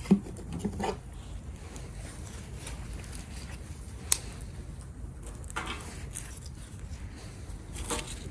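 Wood fire burning in a small cast-iron B6 grill: a few sharp, isolated pops and crackles over a low steady rumble. The loudest pop comes just at the start, with others about four and eight seconds in.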